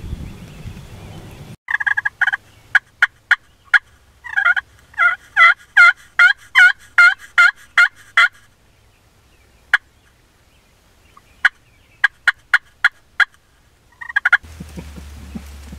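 Turkey friction pot call worked with a striker, making hen yelps: a few yelps, then a fast run of about a dozen, then scattered single clucks. The calling is aimed at a hen turkey.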